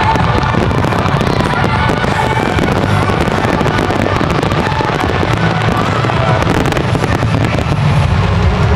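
Fireworks going off in rapid, continuous crackles and bangs, mixed with music.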